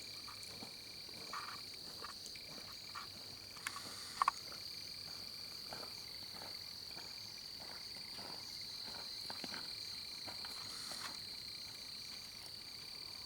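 Steady high-pitched trilling of a background chorus of crickets or frogs, with scattered faint ticks and a couple of small taps about four seconds in.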